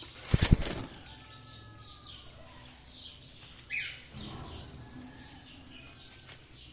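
A parrot's wings flutter in a short, loud burst about half a second in, followed by faint, scattered high chirps and a brief call near the four-second mark.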